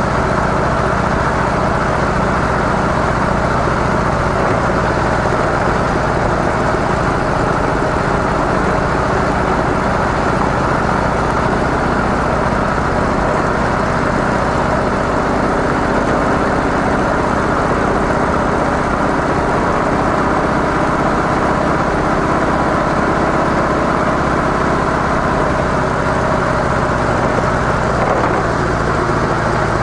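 Harley-Davidson CVO Softail's air-cooled V-twin engine running steadily through its stock mufflers, with a slight change in its note near the end.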